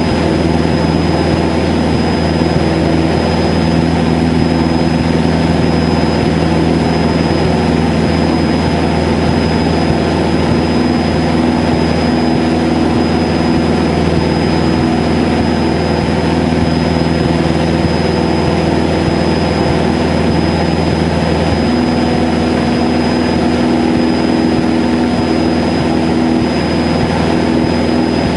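Cessna 152's four-cylinder Lycoming piston engine and propeller droning steadily in flight, heard from the cockpit, with a thin steady high whine over it. The drone's tone shifts slightly about three quarters of the way through.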